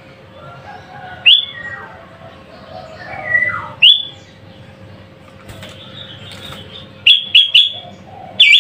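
Sooty-headed bulbul (kutilang) calling: loud, short, sharply rising chirps, one about a second in, another near four seconds, a quick run of three around seven seconds and more at the end, over softer warbling notes.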